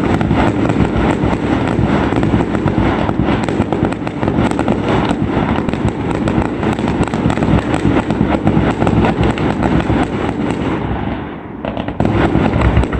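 Fireworks display at full barrage: a dense, continuous rattle of bangs and crackles, easing for about a second near the end before firing up again.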